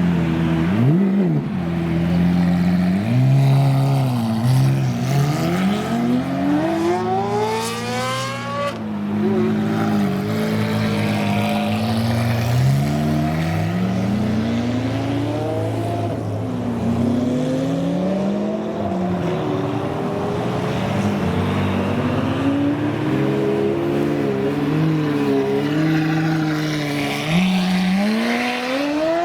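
Supercar engines revving: several exhaust notes repeatedly rise and fall in pitch over a steady running note. Two hard accelerations with long rising sweeps come about six seconds in and again near the end.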